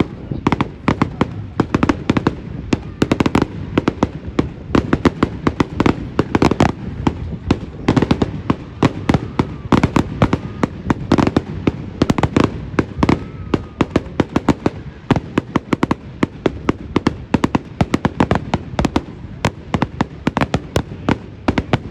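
Fireworks going off in a dense, unbroken barrage of sharp bangs and crackles, many a second.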